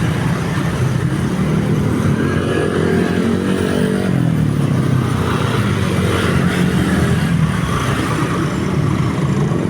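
Road traffic of motorcycles and cars running past, several engines overlapping and rising and falling in pitch.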